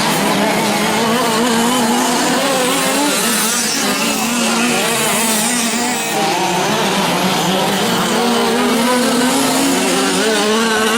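A pack of 1/5-scale gas RC off-road trucks racing, their small two-stroke engines running together and revving up and down.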